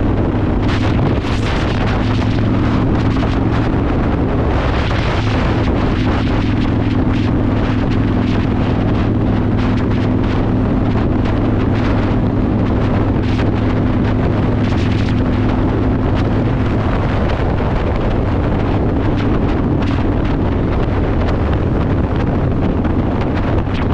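Yamaha Warrior 1700 V-twin with a custom exhaust running steadily at cruising speed, with wind noise buffeting the microphone.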